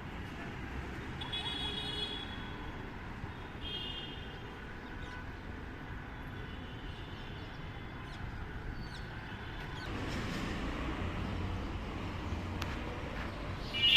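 Indian ringneck parakeet giving two short bursts of harsh, high calls, about a second in and again about four seconds in, over steady city traffic noise that grows louder about ten seconds in as vehicles pass.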